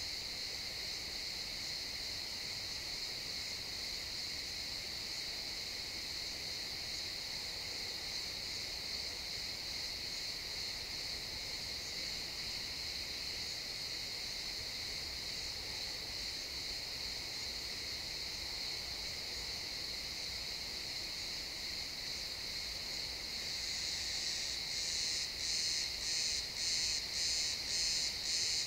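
Crickets chirping in a steady, high-pitched chorus. Near the end a louder, nearer cricket joins in, chirping in a regular pulse about twice a second.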